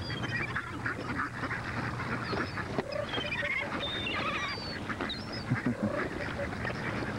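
A flock of Canada geese honking, many short overlapping calls, with higher calls of gulls mixed in.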